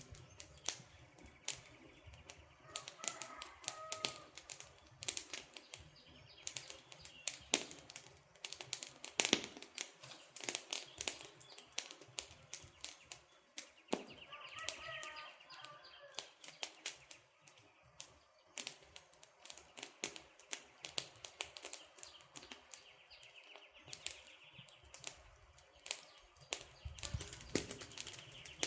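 Wood campfire crackling, with dense, irregular sharp pops and snaps. Faint bird chirps come through twice, about three seconds in and again around the middle.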